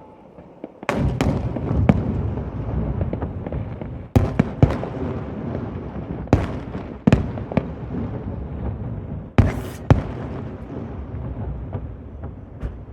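Fireworks display: a dense barrage of shells bursting that starts suddenly about a second in. Sharp bangs stand out every second or two over a continuous rumble and crackle, which eases near the end.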